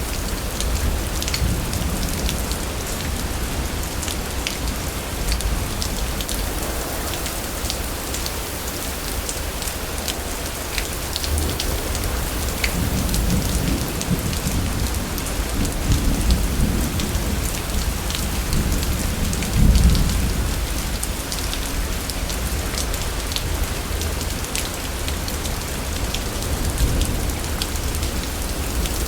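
Steady heavy rain with many sharp drop hits. Low thunder rumbles through the middle and is loudest about two-thirds of the way through.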